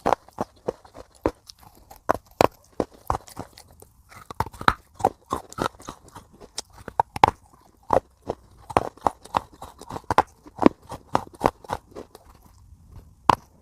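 Crunchy food being bitten and chewed in a quick run of sharp crunches, a few each second, with a brief pause near the end.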